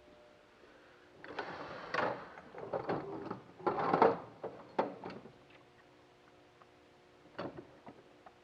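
Hand tools rattling and scraping as a toolbox or drawer is rummaged through for a smaller Phillips screwdriver, with sharp clicks and knocks for about four seconds, then a couple of light clicks near the end.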